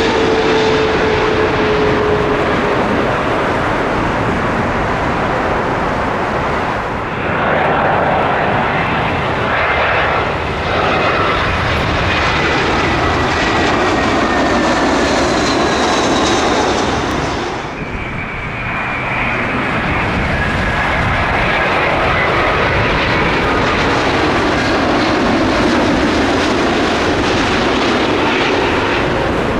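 Jet airliners passing low overhead: loud, rushing engine noise with thin, high whining tones that slide slowly down in pitch. The sound dips and changes abruptly about 7 and 18 seconds in, as one aircraft gives way to the next.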